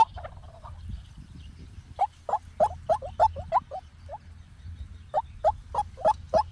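White-breasted waterhen calling: a run of short rising notes, about three a second, beginning about two seconds in, breaking off briefly around the four-second mark, then starting again. A faint low hum lies underneath.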